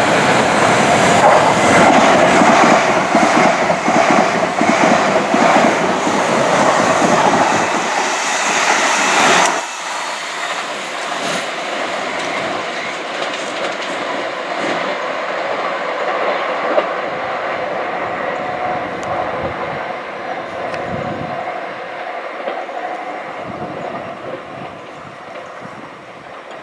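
Train passing close by: a loud clatter of wheels on rail with a rapid beat. About ten seconds in, it drops suddenly to a quieter rumble that slowly fades away.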